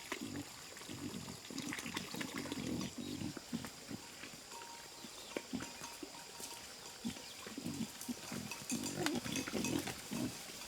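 Pigs grunting in short, repeated bursts, with scattered clicks and knocks.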